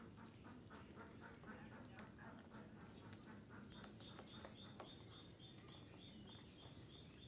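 Female budgerigar chattering softly with short chirps and clicks. About four seconds in come a couple of louder high chirps, followed by a short high note repeated about three times a second.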